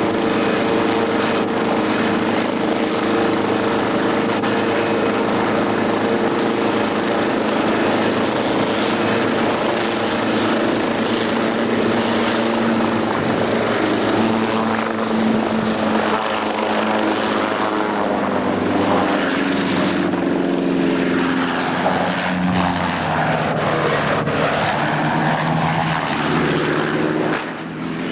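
A helicopter's engine and rotor running steadily, with the engine's pitch shifting about from roughly halfway through.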